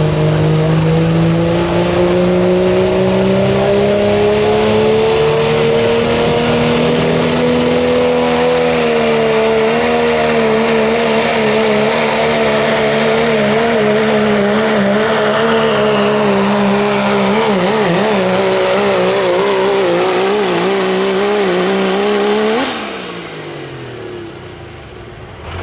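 Diesel 4WD pickup truck pulling a sled at full throttle: the loud engine note climbs in pitch over the first several seconds, then holds with a wavering pitch. About 23 seconds in the throttle is lifted and the engine falls away.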